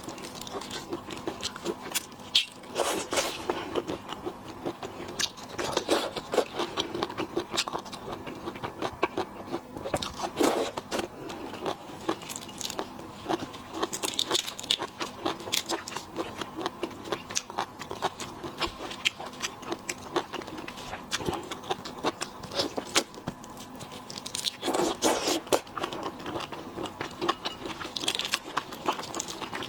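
Shrimp and crab shells being cracked, peeled and chewed close to the microphone: a dense run of crackling clicks and crunches, with heavier crunches every few seconds.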